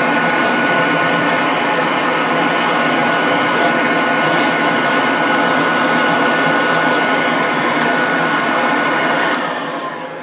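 Dog grooming dryer blowing steadily with a high whine. Near the end it is switched off and winds down, the whine falling in pitch as the noise fades.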